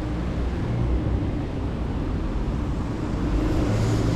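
Harley-Davidson Fat Boy's V-twin engine running steadily at low speed while riding, with road and wind noise.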